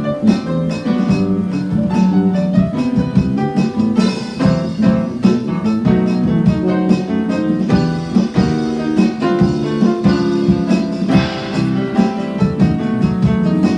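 Music: an acoustic guitar playing a steady stream of quick plucked notes.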